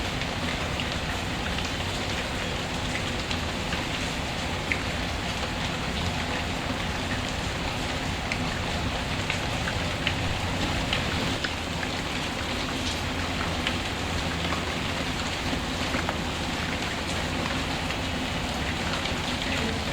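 Steady rain falling. Scattered small sharp pops and crackles throughout come from a wood fire.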